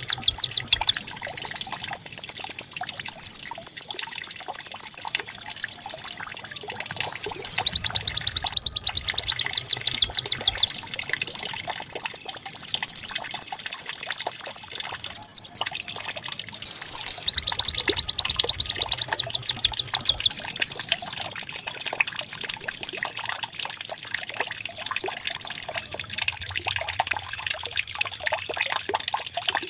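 Canary-like song of a white-eye (pleci), played as a lure recording to prompt caged pleci to sing: rapid high trills and warbles in a phrase that repeats three times, each bout several seconds long with a short break between. The song stops about four seconds before the end, leaving a soft trickling water sound.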